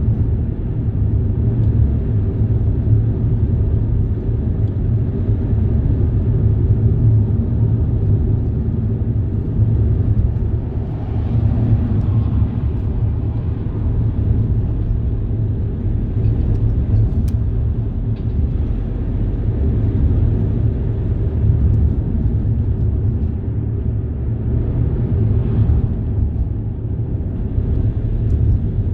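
Steady low rumble with a faint hiss above it, swelling slightly about eleven seconds in and again near the end.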